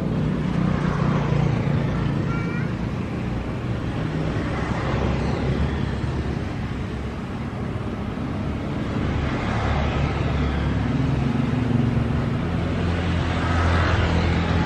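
Motor vehicles passing one after another over a steady low engine drone, each swelling up and fading away.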